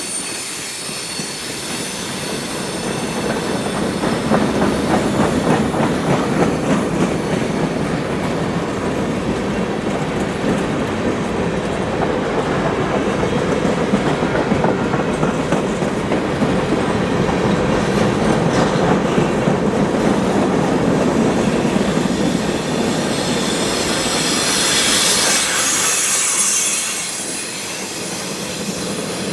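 Freight cars of a CSX manifest train rolling past, wheels clicking steadily over the rail joints. A thin high wheel squeal sounds near the start, and a louder one about 25 seconds in.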